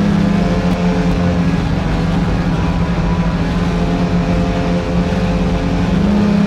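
Boat motor running with a steady hum, its pitch dipping slightly about half a second in and rising again near the end.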